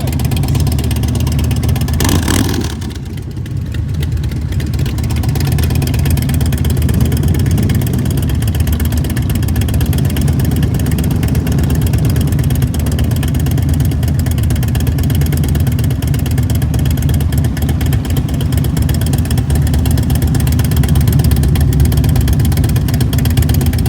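Motorcycle engine running on the move, a steady low drone. The level dips briefly about three seconds in, then builds back up.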